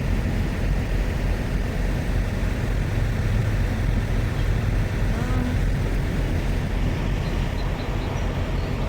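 Truck engine and road noise, a steady low drone.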